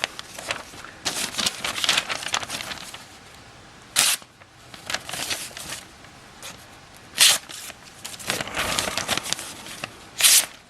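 Sheet of thin paper rustling and crackling as a freshly sharpened folding knife slices through it, with three short, loud crisp cuts about 4, 7 and 10 seconds in.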